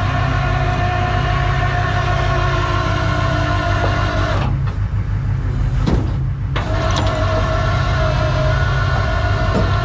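Rollback tow truck running steadily with a low drone and a whine. The whine drops out for about two seconds halfway through, with a couple of clicks, then comes back.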